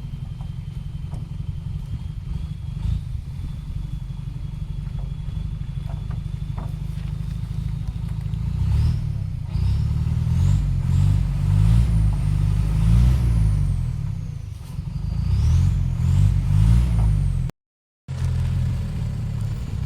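A vehicle's engine running steadily, revving up harder twice in the middle, with a brief break in the sound near the end.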